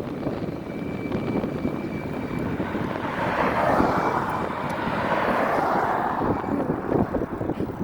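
Engine noise of a passing vehicle, swelling to a peak about four to five seconds in and then fading, with wind rumble on the microphone.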